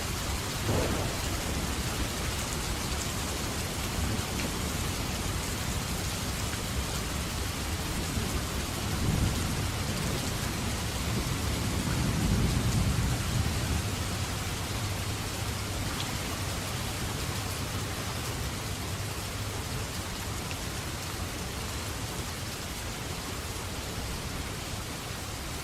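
Steady heavy rain falling, with low thunder rumbling through it: a brief rumble about a second in, another around a third of the way through, and a longer, louder roll near the middle, after which only the rain continues.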